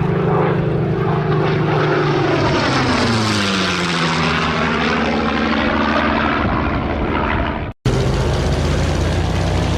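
Piston-engine propeller aircraft flying past, its engine drone dropping in pitch as it goes by. The sound cuts out abruptly for an instant near the end and picks up again as another steady engine drone.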